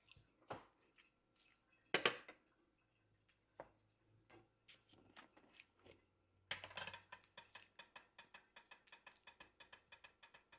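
A pepper mill grinding black pepper: a fast, even run of ratcheting clicks that starts about six and a half seconds in and keeps going. Before it come a few separate knocks, like a spoon against the cooking pot.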